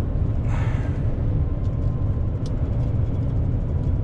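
Heavy truck's engine and road noise heard from inside the cab while driving, a steady low rumble, with a short higher-pitched sound about half a second in.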